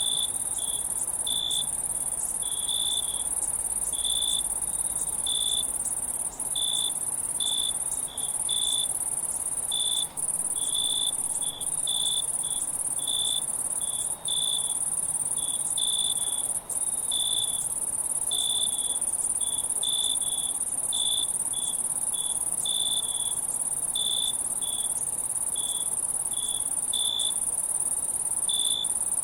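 Crickets chirping: short high chirps repeating irregularly, about one or two a second, over a steady, very high-pitched insect trill.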